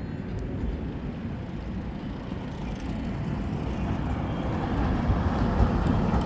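Steady low outdoor city rumble with no distinct events, slowly growing louder over the last few seconds.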